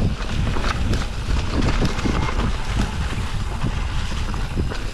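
Wind rumbling on the microphone of a moving mountain bike, with frequent knocks and rattles as the bike rolls over rocks.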